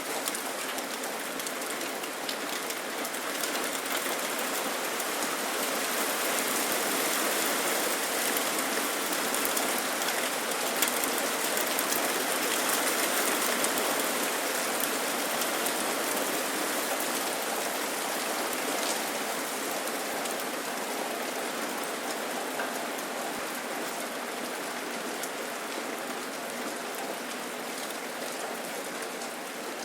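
Steady rain falling, with the hiss of the downpour and the fine patter of individual drops striking surfaces; it swells slightly louder midway and eases back off.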